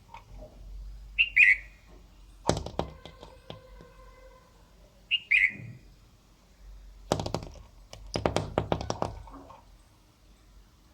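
A bird gives two short, sharp, downward-sliding calls, about four seconds apart. Between and after them come clicks and knocks, with a steady hum-like tone for about a second and a half after the first cluster of clicks, and a rapid run of tapping and knocking near the end.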